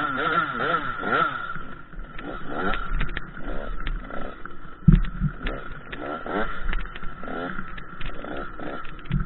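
KTM 85 SX two-stroke dirt bike engine revving up and down over and over, its pitch rising and falling about once a second, over a steady high whine. There is a low thump about five seconds in and another near the end.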